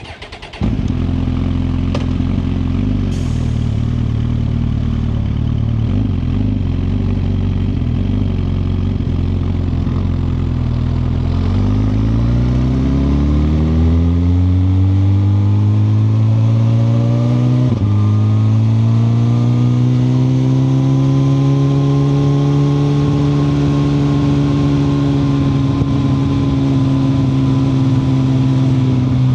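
2021 Suzuki GSX-R1000R's inline-four engine ticking over at low revs, then accelerating with a rising pitch from about 11 seconds in, one quick upshift near 18 seconds, then pulling on and settling to a steady cruising note.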